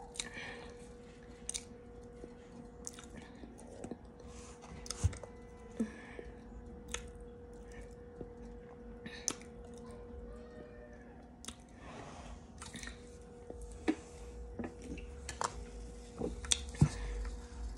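A person chewing mouthfuls of dry cornstarch, with scattered crunches and mouth clicks, louder and closer together near the end.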